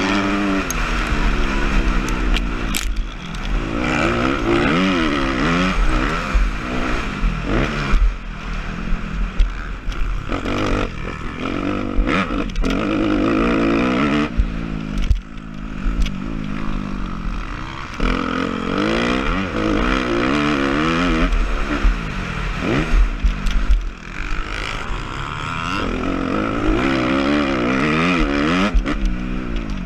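Suzuki RM-Z250 four-stroke single-cylinder motocross bike being raced, its engine revving up and dropping back over and over as the throttle opens and closes. Scattered knocks and rattles are mixed in.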